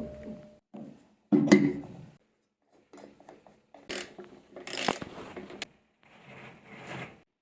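Hand-tool work on washing machine parts during a bearing replacement: several short bursts of mechanical clicking and scraping, with sharp clicks about a second and a half in and again near five seconds, separated by brief pauses.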